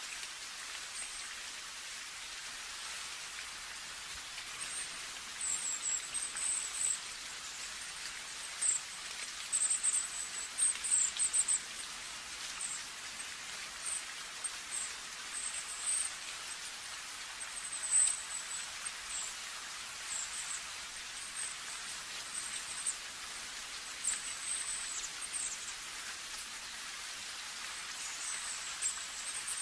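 Steady rain falling, a continuous even hiss. From about five seconds in, short high-pitched chirps come and go over it and are the loudest sounds.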